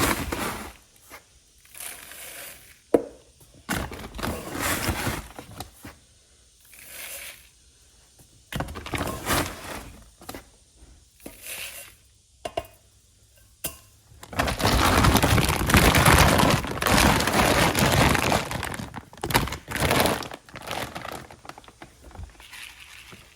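Irregular handling noises: knocks, rustling and scraping, with one sharp knock about three seconds in and a long stretch of loud rushing noise about two thirds of the way through.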